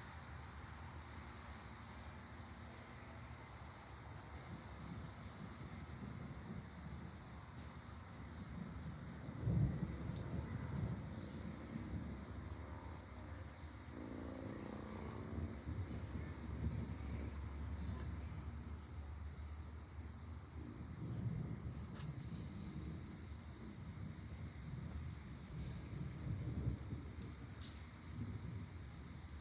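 Crickets trilling steadily in one continuous high-pitched drone, with low rumbles of distant thunder underneath; the strongest rumble comes about ten seconds in.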